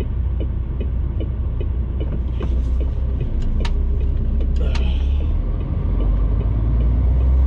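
Heavy goods lorry's diesel engine running with a steady low rumble as the truck drives slowly. A regular light ticking runs through the first half, with a few sharp clicks later on.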